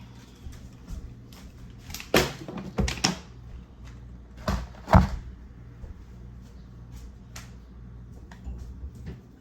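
Kitchen clatter while cleaning: a series of sharp knocks and clunks, like items being set down or a cupboard or fridge door being handled. The loudest knock comes about five seconds in, followed by lighter clicks.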